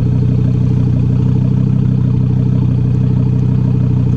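Audi TT RS five-cylinder engine idling steadily through an Ego X aftermarket exhaust with its valves opened. Loud and even, with no revving.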